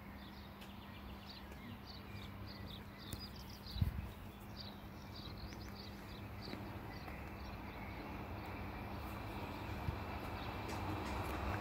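Regional passenger train approaching a level crossing: a rumble and steady high rail hiss that grow louder through the second half as the train draws near. Earlier on, a bird chirps in a quick series of short high notes, and there is one low bump about four seconds in.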